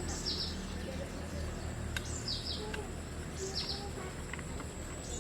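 A bird calling: three short, falling high chirps a second or two apart, over a steady thin high whine and a low hum.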